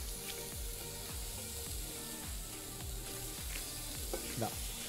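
Steady sizzle of meat frying in a pan, under background music with a low, regular beat.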